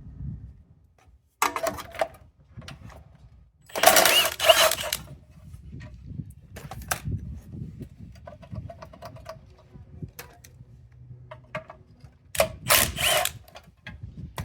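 Hand tools and metal engine parts being worked on a small engine: scattered ratchet-like clicks, with three louder bursts of metal clatter about a second and a half, four seconds and twelve seconds in.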